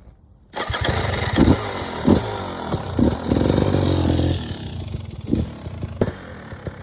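KTM EXC 300 single-cylinder two-stroke enduro engine revving hard, with the pitch rising and falling, starting about half a second in. After about four seconds it drops to a lower, crackling run.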